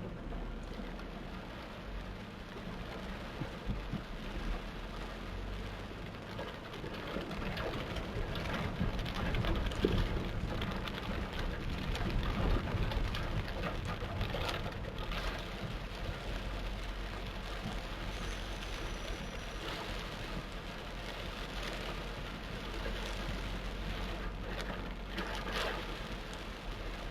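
Torrential rain pouring down, a dense steady wash of drops and splashes that swells a little around the middle, with a steady low hum underneath.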